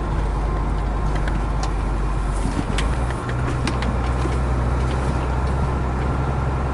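Heavy truck's diesel engine running under the cab, heard from inside as a steady low hum; the engine note shifts about three seconds in.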